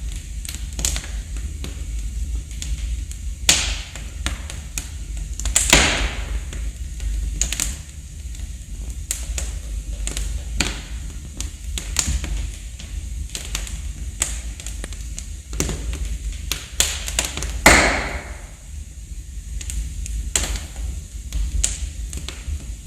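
Wood burning in a fireplace, crackling: irregular sharp snaps and pops, a few of them louder, over a steady low rumble.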